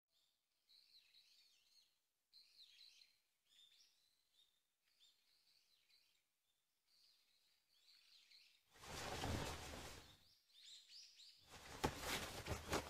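Faint birds chirping in short scattered calls. After about nine seconds, two louder bursts of hiss-like noise come in, each lasting a second or more.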